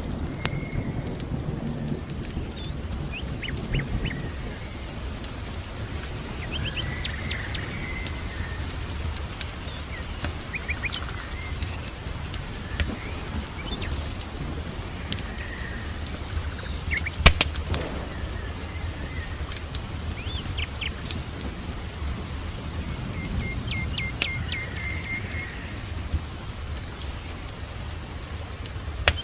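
Songbirds chirping and trilling in short scattered phrases over a steady background rumble, with frequent small sharp crackles and one loud crack about two-thirds of the way through.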